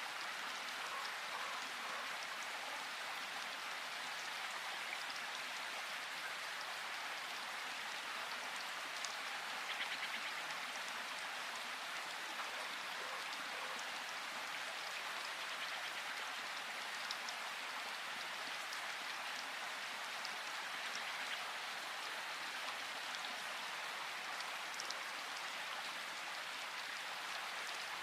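Steady rain falling, an even hiss of drops with single drips ticking out here and there, briefly a little louder about ten seconds in.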